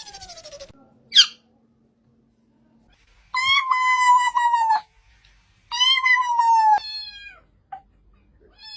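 Domestic cat meowing: a short falling call, then two long drawn-out meows that hold steady and fall away at the end, with a brief sharp high sound about a second in.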